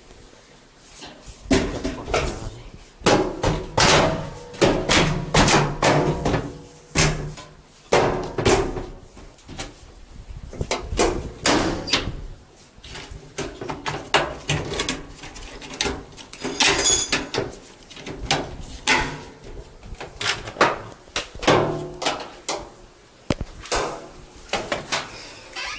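Irregular knocks and clattering of washing machine parts being handled and fitted, many sharp impacts at uneven intervals.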